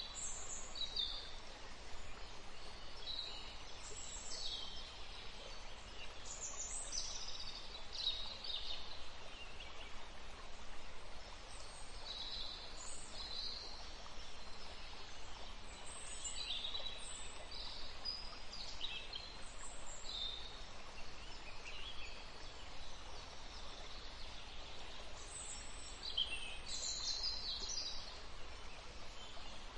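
Nature ambience: scattered short, high chirps of birds over a steady soft background hiss.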